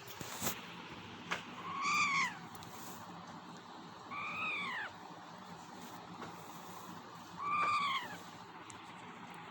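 Indian ringneck parrot giving three separate drawn-out calls a couple of seconds apart, each rising then falling in pitch. Two sharp clicks come just before the first call.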